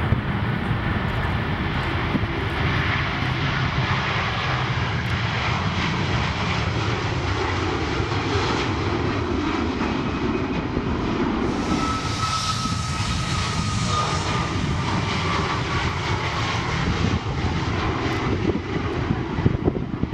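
Jet airliner's engines running at high power, a steady loud rumble, with a thin whine that slides slightly downward about halfway through.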